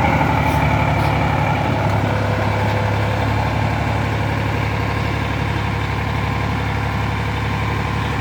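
Sonalika tractor's diesel engine running steadily at an even speed.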